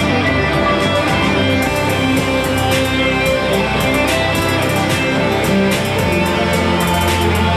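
A live band playing an instrumental passage: guitar over a steady bass, with cymbal hits.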